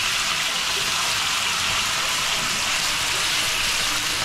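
Steady sizzle of food frying in hot oil in a pan.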